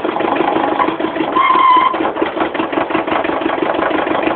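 Kubota B7000 tractor's two-cylinder diesel engine running with a rapid, even clatter while the hydraulic lift arms are worked on still-cold oil. A brief high whine sounds about a second and a half in.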